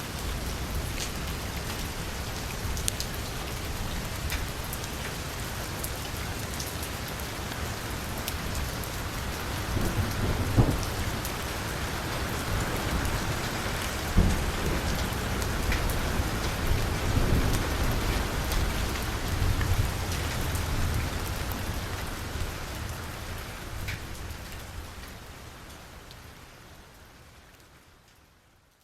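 Heavy rain pattering on a car's roof and windows, with low rumbles of thunder swelling in the middle. The sound fades out over the last few seconds.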